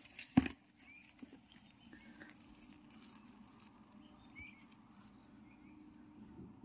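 A single sharp knock about half a second in, then quiet woodland with light rustling and a few short faint bird chirps.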